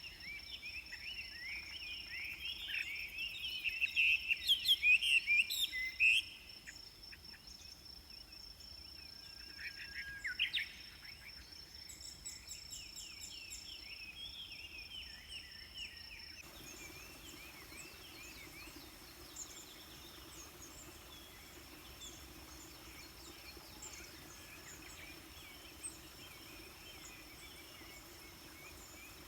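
Birdsong: many quick chirping calls, loudest in a burst a few seconds in, then thinner, over a steady thin high-pitched tone. The background changes abruptly about halfway through.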